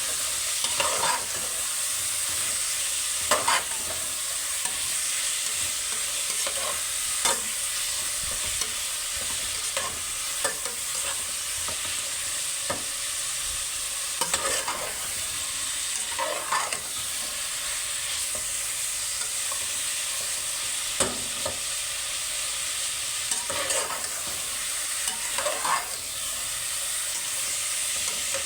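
Tinde (round gourd) frying and sizzling steadily in a pan, with a spatula scraping and knocking against the pan every second or two as it is stirred.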